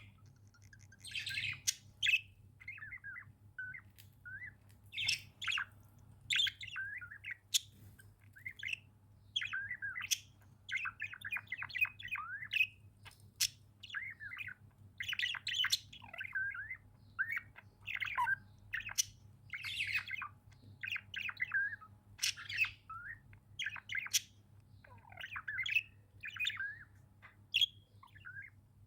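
Pet budgerigars chirping and warbling continuously, a stream of short, quick chirps and chatter with occasional squawks.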